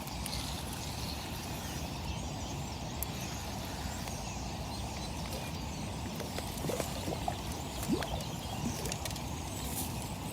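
Steady outdoor background rumble, with a few faint, short bird chirps.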